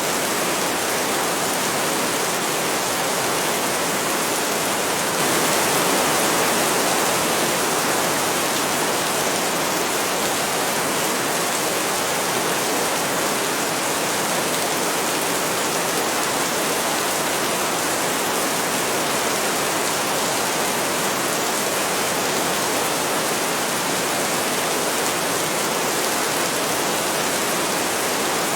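Heavy rain falling steadily, a dense even hiss, swelling slightly about five seconds in.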